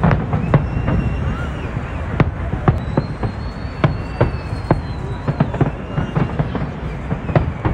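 Aerial fireworks bursting in rapid succession: many sharp bangs and cracks over a continuous low rumble, with a few thin high whistles gliding through.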